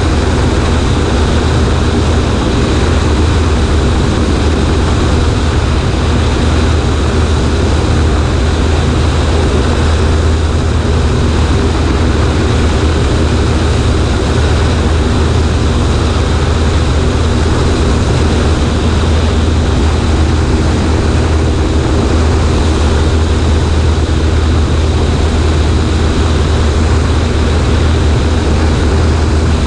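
Cessna 140A's engine and propeller running at steady power, heard from a camera mounted on the right wing, with a low drone and an even rush of air.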